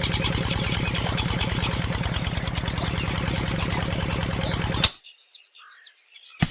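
Engine running at a steady, rapid beat while birds chirp, cutting off abruptly about five seconds in; a few faint chirps remain, then a single sharp knock near the end.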